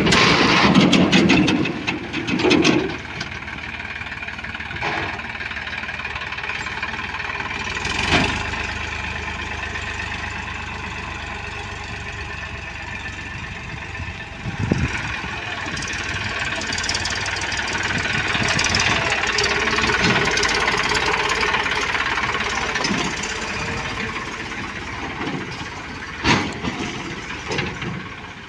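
Diesel engines of a JCB 3DX backhoe loader and farm tractors running steadily while the backhoe works, with a few sharp knocks.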